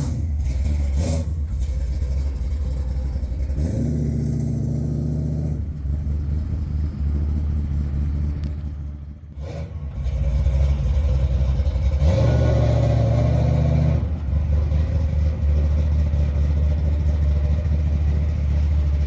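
451 cubic-inch Mopar big-block V8 in a 1978 Dodge D200 pickup, running hard at full throttle on a drag strip pass. The sound is loud and sustained, drops off briefly about nine seconds in, then comes back louder.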